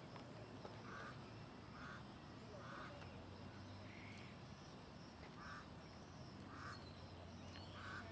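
Faint outdoor ambience with a bird calling: short calls repeated roughly once a second, with a gap around the middle, over a low steady background hum.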